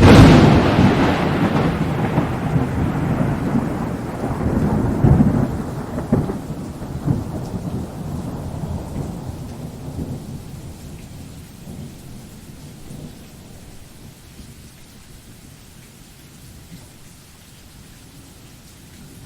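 A thunderclap breaks suddenly right at the start, then rumbles and rolls with a few swells, dying away slowly over about ten seconds into the steady hiss of rain.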